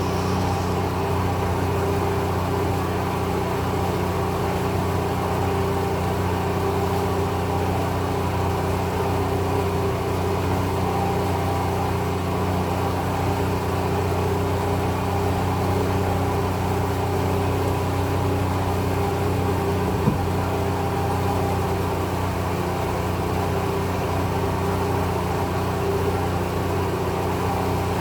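An engine running steadily at an even speed, with a constant hum, and one short sharp click about twenty seconds in.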